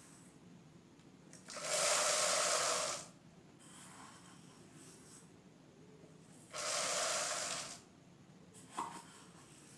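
Mixed grains poured into a plastic bottle in two separate pours, each a rushing rattle lasting a second or so, with a small tap near the end.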